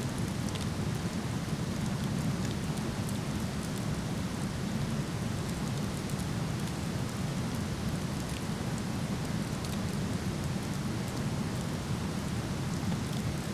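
Steady rushing of a waterfall, with faint scattered crackles and pops from a wood fire burning.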